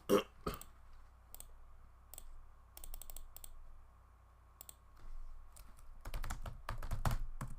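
Typing on a computer keyboard: scattered keystrokes, a short cluster about three seconds in, then a quick burst of typing near the end.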